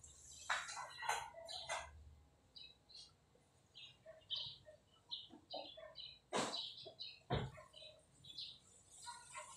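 Birds chirping in many short separate calls, with a few sharp knocks or taps, two louder ones about six and seven seconds in.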